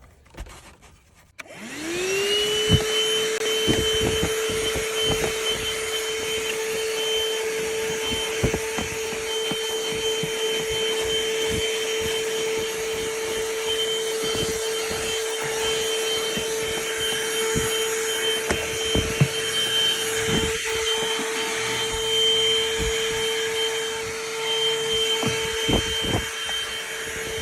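A corded 12-volt ThisWorx handheld car vacuum switching on about a second and a half in, its motor whine rising quickly to a steady pitch and then running steadily. Scattered clicks and knocks sound as the fitted attachment is worked over the car's interior.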